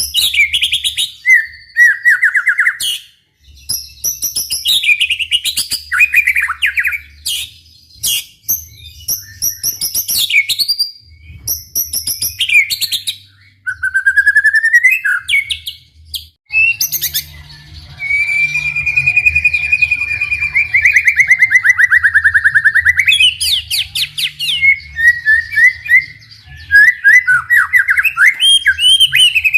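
White-rumped shama singing a long, varied song: loud whistles, rapid chattering trills and sweeping notes, with one long drawn-out whistle in the middle.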